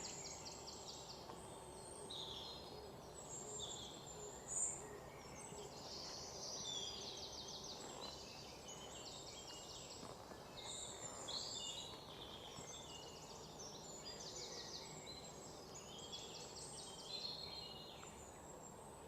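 Faint birdsong: several small birds chirping and trilling over a quiet steady outdoor hiss, with one louder chirp about four and a half seconds in.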